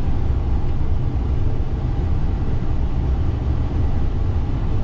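Steady low rumble of an airliner cockpit in flight shortly after takeoff: engine and airflow noise with no distinct events.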